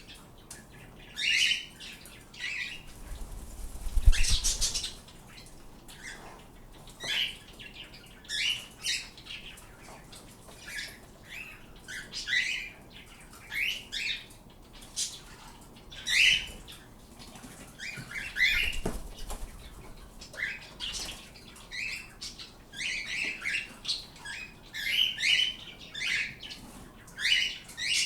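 Pet birds calling with many short chirps and squawks, about one or two a second. A louder burst of noise comes about four seconds in.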